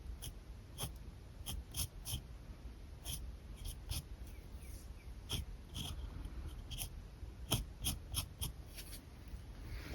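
Alcohol marker tips working on paper in quick short strokes and dabs: many short, sharp ticks at irregular intervals, with a brief soft scratch near the end.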